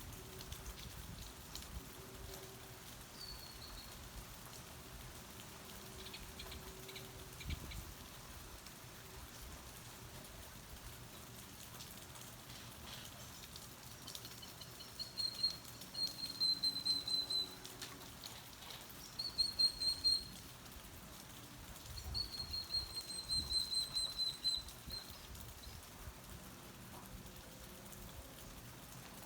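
Steady rain falling around a porch, while a bird gives a short call and then three runs of rapid, high chirps, each run falling slightly in pitch, in the second half.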